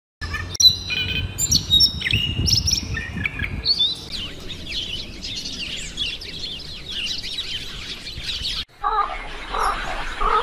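Songbirds calling: a few separate chirps and whistled notes, then a dense chatter of many sparrows' short high chirps. Near the end it cuts off suddenly into a lower, rougher repeated sound.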